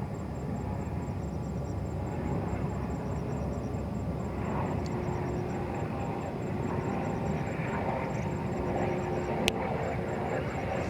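Distant jet airliner engines: a steady rumble that grows fuller and slightly louder from about four seconds in. A single sharp click comes near the end.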